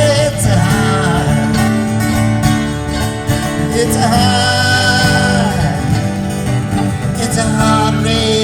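Live band playing a folk-rock song on guitars, with a lead melody line sliding and holding notes in the middle.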